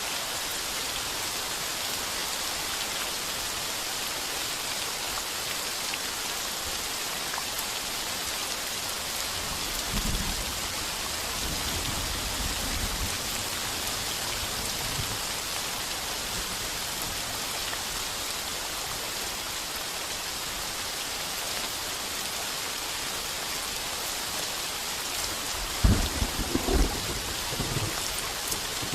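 Heavy rain falling on a tin roof in a steady hiss. A low roll of thunder swells about a third of the way in, and a louder, sharper thunderclap with rumbling comes near the end.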